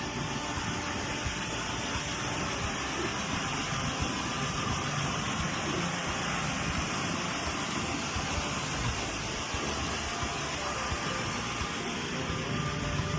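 1949 Oldsmobile 88's Rocket V8 engine running steadily.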